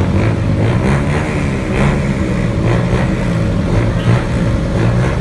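Truck engine running steadily, a loud low hum that rises and falls a little.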